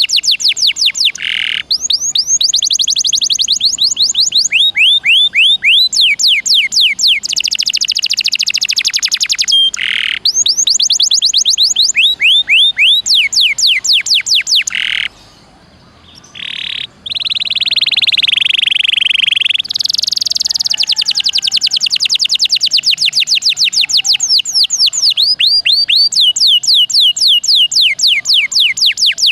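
Domestic canary singing loudly and continuously: long rolls of rapid, repeated sweeping notes, with a few held buzzy notes, and a short break about halfway through.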